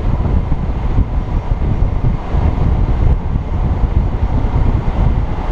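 Steady wind buffeting on the microphone at road speed on a Honda Gold Wing 1800 touring motorcycle, with the bike's flat-six engine and road noise underneath as a continuous low rumble.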